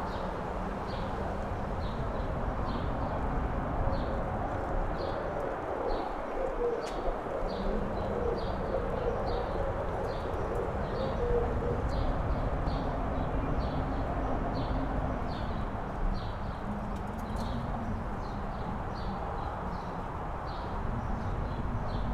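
Strong wind blowing, with a wavering low howl running through it. Over it, a steady series of short high chirps repeats about one and a half times a second.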